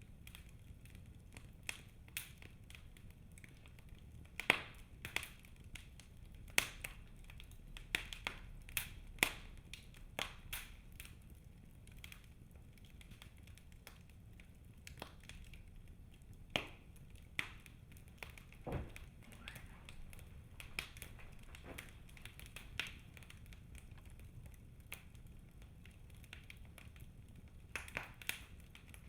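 Wood fire crackling in a fireplace: irregular sharp snaps and pops over a low, steady rumble, with a run of louder snaps from about four to ten seconds in.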